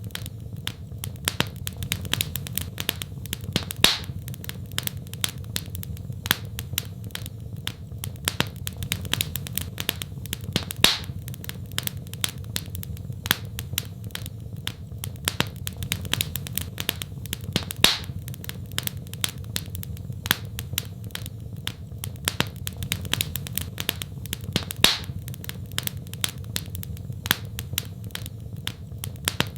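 Wood fire in a fireplace crackling steadily: a continuous low rumble of the flames under frequent small snaps, with a louder pop every several seconds.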